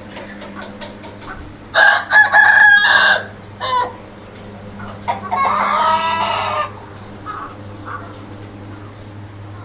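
Rooster crowing twice, about two seconds in and again about five seconds in, with a short call between the two crows.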